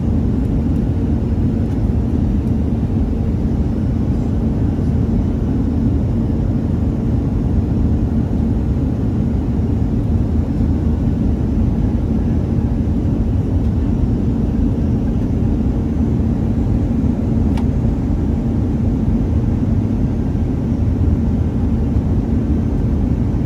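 Steady cabin noise inside an Airbus A319: a constant low rumble of the jet engines and airflow with a faint steady hum, unchanging in level.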